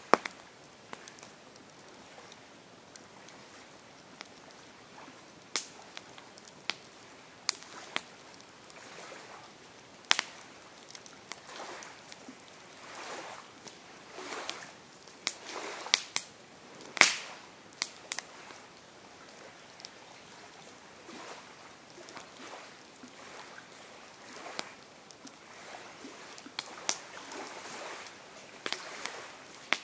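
Campfire crackling: irregular sharp pops and snaps over a soft steady hiss, with the loudest snap about halfway through.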